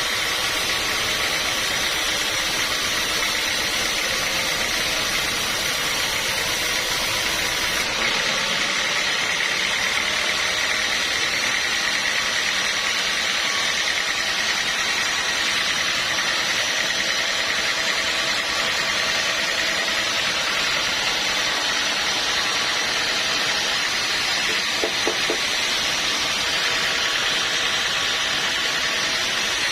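Sawmill machinery running steadily, a constant mechanical drone with a high whine. Its sound changes abruptly about eight seconds in.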